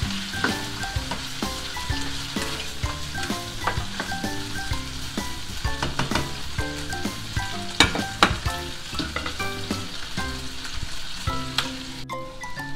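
Chicken, onion and carrot sizzling in a hot nonstick frying pan as they are stirred with a plastic spoon, with sharp knocks of the spoon against the pan, loudest about two-thirds of the way through. Near the end a metal lid goes on and the sizzle turns muffled.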